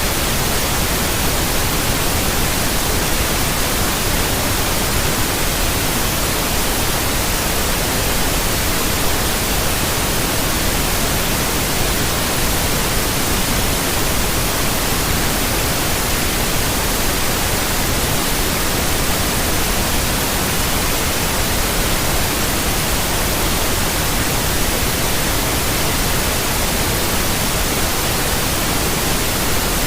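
Steady synthetic white noise: an even, unchanging hiss that covers the whole range from low to high, with no tones or events.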